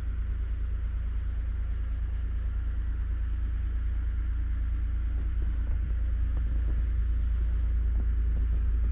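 Bobcat E50 compact excavator's diesel engine idling steadily as it warms up from a cold start.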